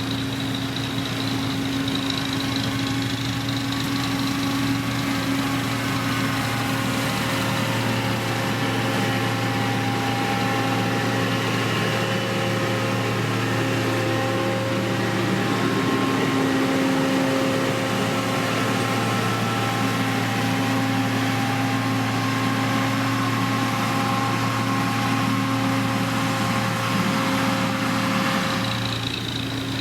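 Diesel engine of heavy road-construction machinery running steadily, with a constant low engine note and no sharp changes in speed.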